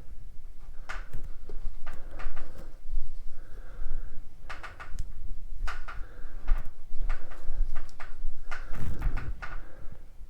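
Clicks, knocks and short sliding scrapes of metal tools and parts being handled on the bench, as main-bearing lapping pauses for a check of the bore.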